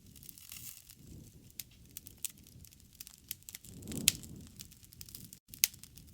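Wood fire burning, with irregular sharp crackles and pops over a low rumble of flames. The burning swells, with louder pops, about four seconds in.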